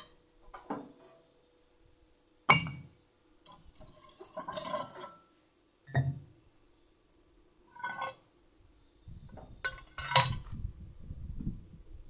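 Metal parts and tools clinking and knocking as they are handled during fabrication work: scattered single knocks, the loudest about two and a half seconds in, a short rattle near the middle, and a run of clattering near the end.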